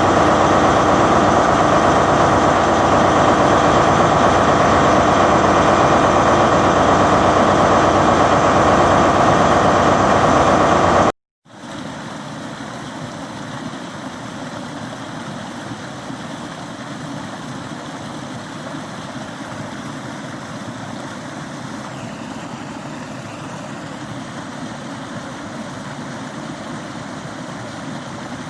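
Stream water running: a steady, even rushing noise, loud for the first eleven seconds or so, then a sudden cut to a quieter, steadier flow.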